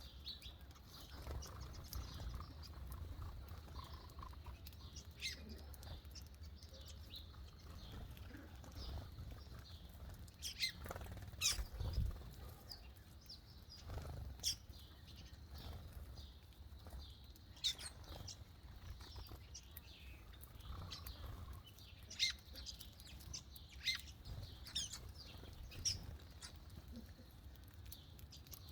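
Birds chirping: many short, sharp chirps and clicks scattered irregularly, over a steady low rumble.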